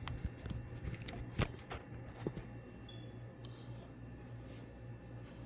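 A few light clicks and knocks of hands handling things, bunched in the first two and a half seconds, over a steady low hum.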